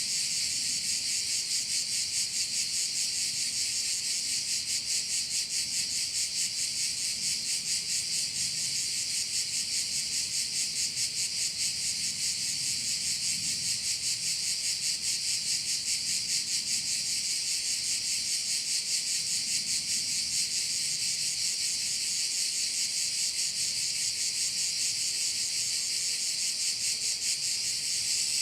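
A dense, unbroken chorus of cicadas singing: a loud, high, rapidly pulsing buzz with no pauses.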